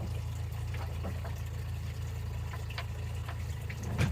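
Sailboat's engine running steadily at a low, even speed, with scattered small splashes and ticks of water and a single louder knock near the end.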